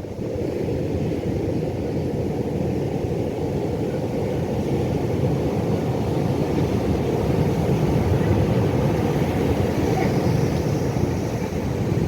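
Ocean surf: a steady low rumble of waves that swells slowly and eases a little near the end.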